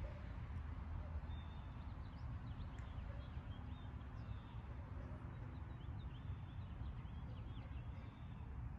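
Wild birds chirping in the background, many short high calls scattered throughout, over a steady low rumble.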